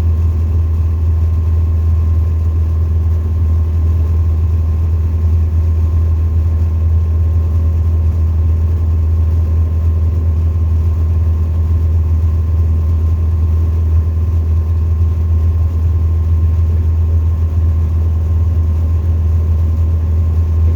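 Tecnam ultralight's engine and propeller running steadily: a constant low drone with a few faint steady tones above it, unchanging throughout.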